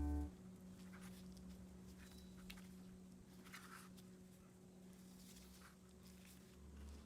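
Background music cuts off just after the start, leaving near silence: faint room tone with a steady low hum and a few faint light ticks and taps.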